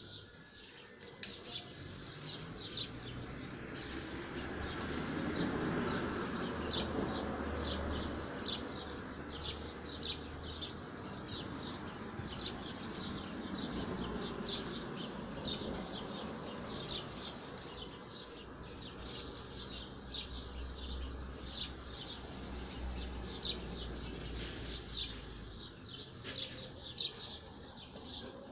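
Small birds chirping busily and without pause, many quick high chirps a second, over a steady low background noise.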